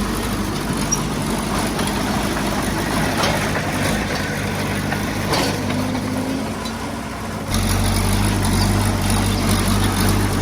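Heavy diesel engine of earthmoving equipment (a bulldozer or dump truck) running steadily at low revs. It eases off for a couple of seconds past the middle, then comes back abruptly about three quarters of the way through.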